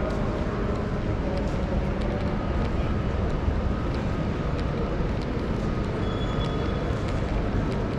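Sydney electric suburban train running, heard inside the carriage: a steady low rumble and rush of wheels on track, with a faint whine and a few light clicks.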